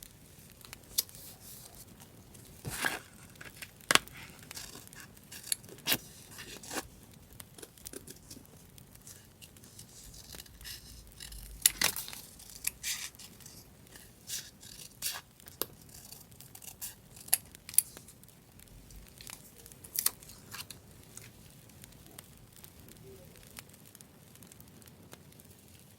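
Paper being handled, torn and cut: irregular crisp rustles with scattered sharp tears and snips, thinning out near the end.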